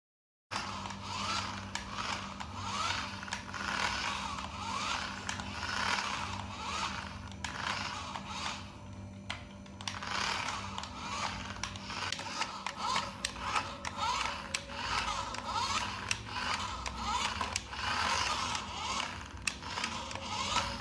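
Toy RC car's small gear motor whirring in repeated short spin-ups, each rising in pitch, with clicking and rattling of plastic gears, over a steady low hum.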